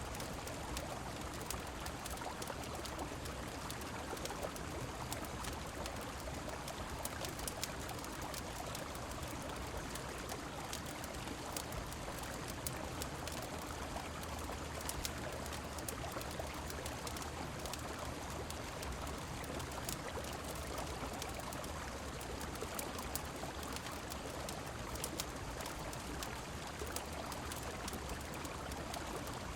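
A river flowing and rain falling in a steady, even rush, with frequent small, sharp crackles from a wood fire scattered throughout.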